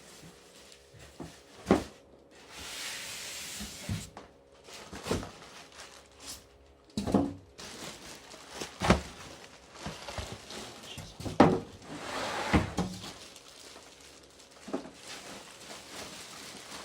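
Unpacking noises from a cardboard box and plastic bag as a vacuum cleaner is lifted out: scattered knocks and thumps, with two stretches of rustling.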